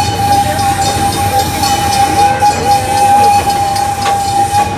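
Miniature park train running, with a single long, steady high-pitched tone over its rumble that cuts off near the end.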